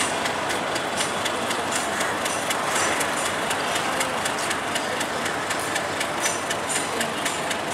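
Subarna Express passenger coaches rolling slowly along the yard tracks: a steady rumble of wheels on rail with frequent sharp clicks over the joints and points.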